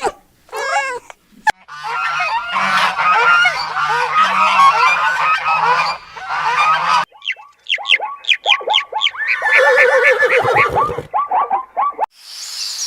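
A flock of birds honking: a few calls, then many overlapping honks for several seconds, then after a short break a run of short falling calls. Near the end a steady hiss with chirps takes over.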